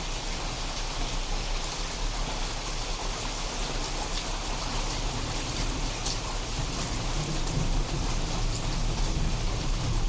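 Steady heavy rain falling and pattering on surfaces, with scattered drop ticks. In the last few seconds a low rumble of thunder starts to build under the rain.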